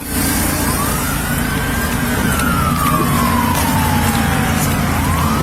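Emergency siren on a slow wail: it rises, then falls gradually over about four seconds and starts rising again near the end. Beneath it runs a steady low vehicle engine rumble.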